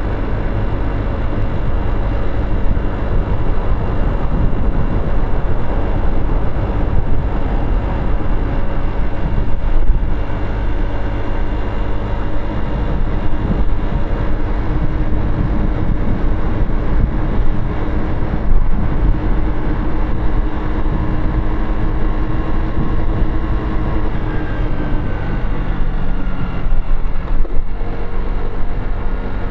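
Motorcycle engine running while riding through city traffic, over a dense steady rush of road and wind noise; the engine note holds an even pitch for long stretches and shifts a little near the end.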